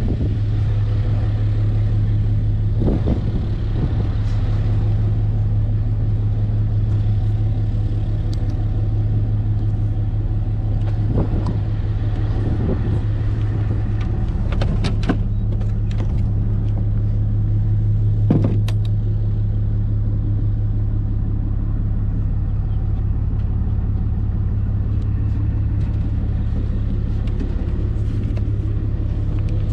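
Motor vehicle engine running steadily, a low even drone, with a few short knocks and rattles.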